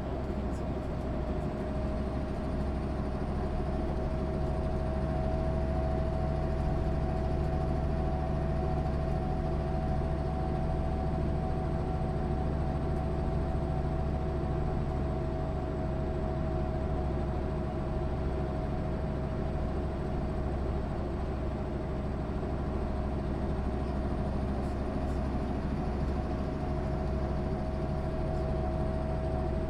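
1996 MAN SÜ 272 bus running steadily: a low engine rumble with a clear, steady high whine over it and no change in load.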